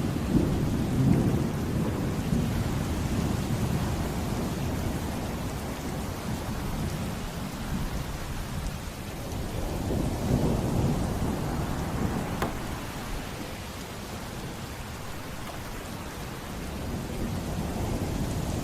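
Heavy rain falling steadily with rolling thunder, the low rumble swelling near the start and again about ten seconds in.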